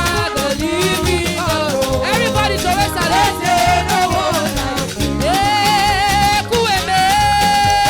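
Live praise-and-worship music from a church band: a steady, danceable percussion beat under a wavering melody line, which settles into a long held note near the end.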